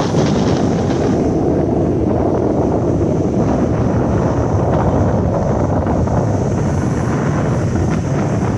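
Wind buffeting the microphone: a steady, loud rumbling roar.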